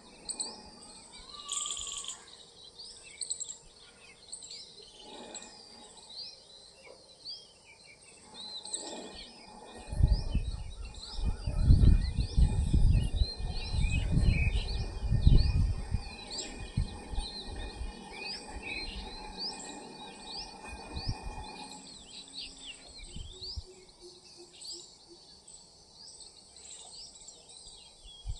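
Dawn chorus of many small birds chirping and calling over a steady high-pitched insect drone. Midway through, a loud low rumble lasting about six seconds sits underneath.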